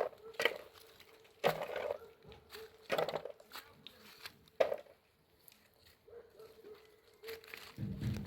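Irregular knocks and clattering, about five sharp strokes in the first half, over a faint steady hum, then quieter.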